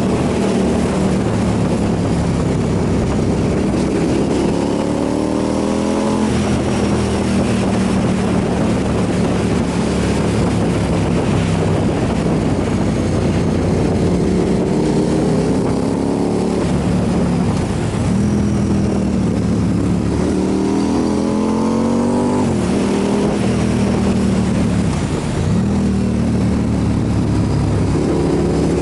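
Motorcycle engine running under way, its pitch climbing several times as it accelerates and dropping briefly between, as on gear changes, over a steady rushing noise.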